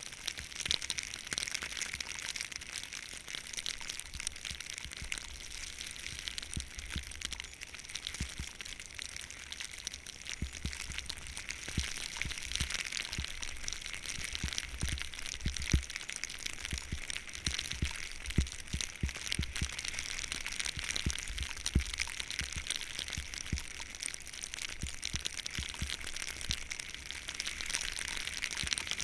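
Skis sliding and scraping over snow in a continuous hiss, with crackling and crunching, while wind buffets the microphone in low rumbles.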